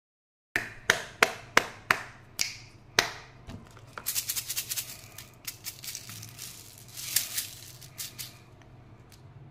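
Candy and toy packaging being handled: a run of about seven sharp taps or clicks, then bursts of rattling and crinkling.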